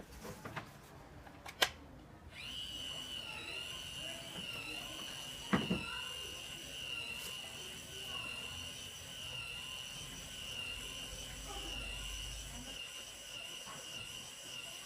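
A few sharp clicks, then a small electric rotisserie motor switching on about two seconds in and running with a steady high whine.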